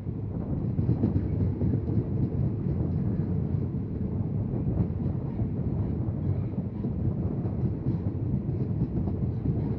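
Passenger train running on the rails with a steady low rumble.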